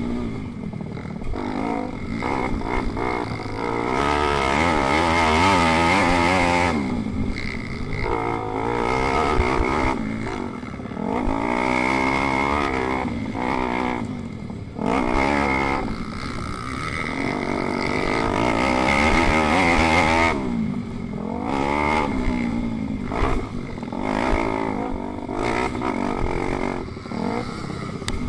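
Racing pit bike engine revving hard and backing off again and again, its pitch climbing and falling every couple of seconds as it is ridden flat out through corners.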